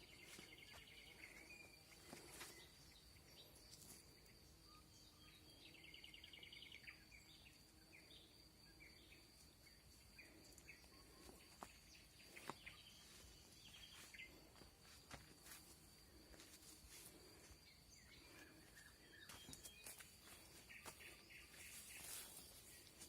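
Nightingale singing faintly in short phrases of rapid repeated notes, a few seconds apart, over a steady high-pitched tone.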